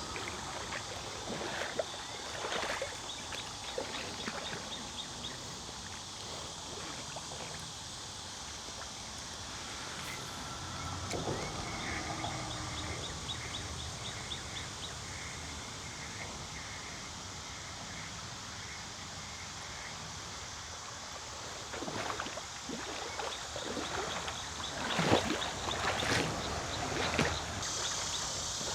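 Water splashing and sloshing as someone wades through a shallow creek, the loudest splashes coming in a cluster near the end, over a steady outdoor hiss. A high, fast ticking trill repeats a few times in the background.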